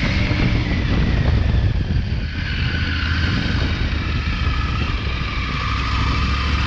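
Triumph Tiger 900 Rally Pro's 888 cc T-plane inline-three engine running steadily through its stock exhaust as the motorcycle is ridden.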